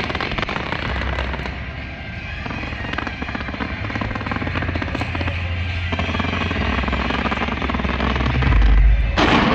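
Fireworks going off: dense crackling over a deep rumble of booms, with one loud burst near the end.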